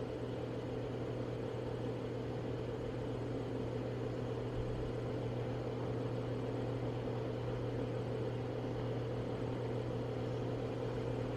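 Steady low hum with an even hiss, unchanging throughout, like a fan or an appliance running.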